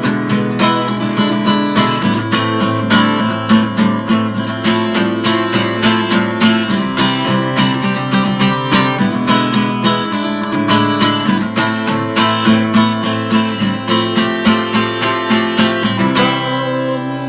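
Acoustic guitar strummed in a steady rhythm, playing an instrumental passage of chords without singing.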